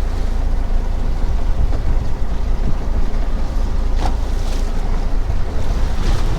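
Steady low rumble and rushing noise on a fishing boat at sea, from the boat, wind on the microphone and water. Two brief splashy sounds come about four and six seconds in.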